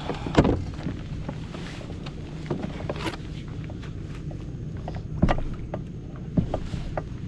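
Canoe paddling: irregular knocks and splashes of paddles against the hull and water, the sharpest about half a second in and again around five seconds, over a steady low rumble.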